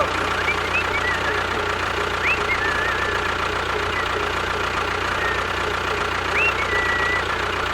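A motor running steadily with an even hum, with a few short high chirps over it.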